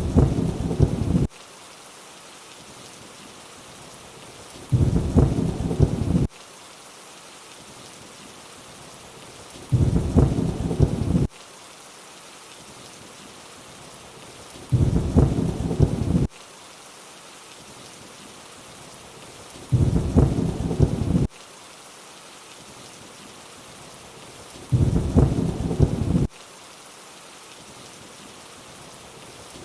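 Steady rain hiss with a short burst of low thunder rumble about every five seconds, each lasting a second or so and starting and stopping abruptly, the same rumble repeating.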